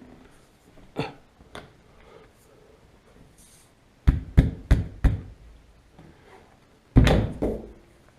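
Knocks and thumps on a car's rear window glass and rubber seal as it is worked into the body opening: two light knocks, then four quick thumps in a row, and one heavy thump near the end.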